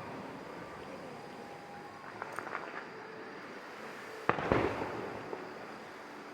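Fireworks going off: a few small crackles about two seconds in, then one sharp bang about four seconds in, followed by a short crackle.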